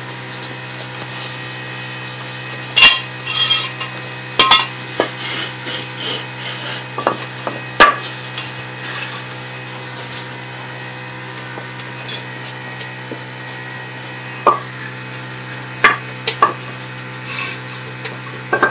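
Metal tools and parts clinking and clanking now and then over a steady low hum, with a few sharp clanks standing out.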